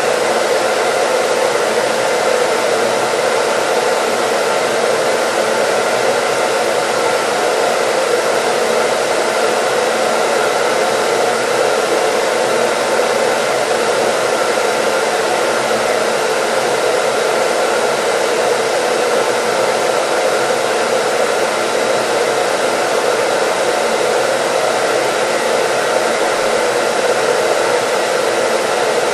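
Electric hair dryer running continuously at one setting: a steady airy rush with a faint motor hum, unchanging throughout, used as white noise.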